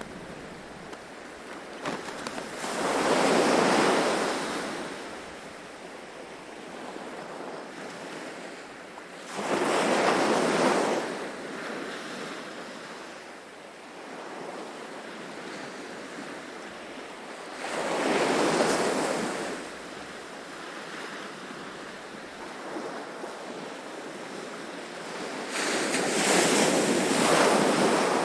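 Gentle ocean waves: four waves surge and wash back, about eight seconds apart, over a steady hiss of surf between them.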